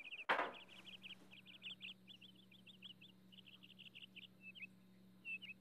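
Small birds chirping in quick runs of short high notes over a low steady hum, with one sharp knock about a third of a second in.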